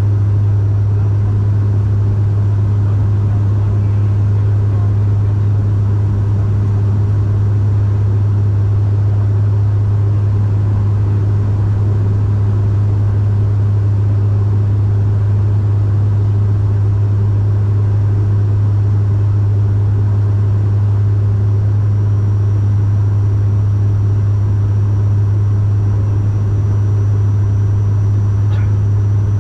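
Bombardier Dash 8 Q400 cabin in flight: its PW150A turboprops and six-blade propellers make a steady low drone, loud and unchanging.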